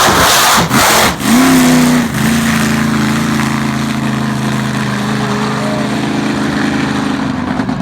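Monster truck engine revving hard for about two seconds, then settling into a steady, loud idle.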